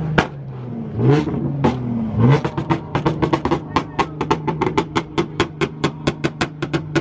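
Car engine revved in quick blips, each rising in pitch, then held hard so the exhaust gives a rapid string of sharp cracks, about five a second.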